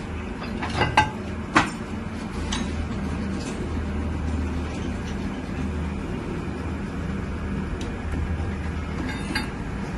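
Metal parts clinking and ringing against each other several times in the first few seconds, with a few lighter clinks near the end, over a steady low machine hum.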